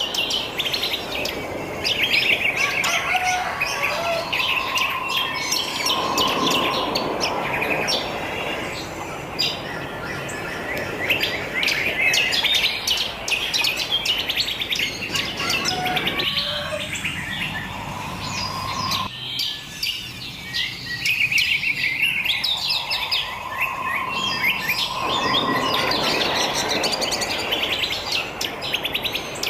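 Wild birds chirping and singing together, many quick overlapping calls and trills, over a steady background hiss that thins out for several seconds past the middle.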